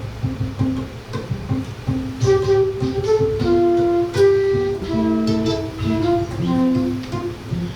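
Seven-string guitar playing a rhythmic Brazilian ijexá groove, joined about two seconds in by a flute melody of held notes.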